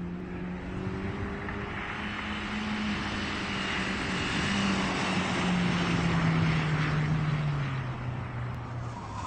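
A vehicle engine running steadily under a broad rushing noise that swells in the middle, its pitch slowly falling near the end.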